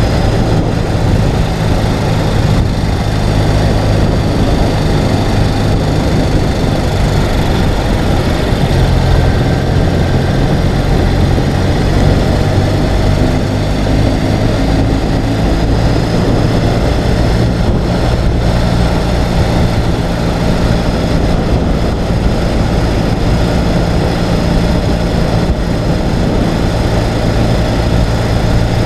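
Ural sidecar motorcycle's flat-twin engine running steadily while riding, with wind and road noise over it.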